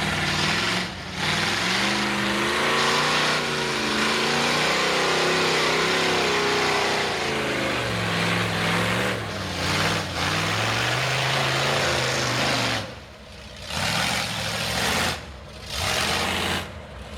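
Ford 460 big-block V8 mud truck on open headers revving hard, its pitch climbing and falling again and again. Near the end the throttle is let off briefly three times.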